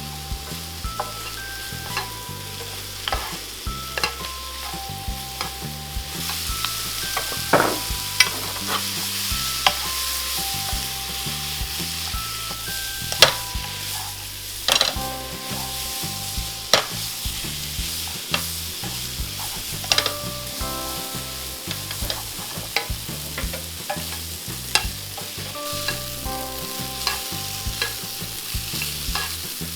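Food sizzling in hot oil in a frying pan over high heat as it is stir-fried, with a steady hiss. A utensil clicks and scrapes against the pan at irregular moments.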